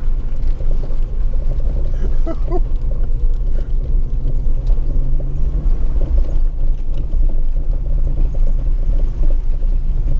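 Jeep WJ Grand Cherokee driving slowly on a dirt trail: a steady, loud, low engine and drivetrain rumble.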